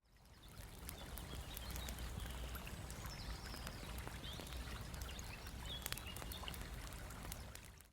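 Faint outdoor woodland ambience: a steady hiss with scattered light clicks and a few short chirps, fading in at the start and out at the end.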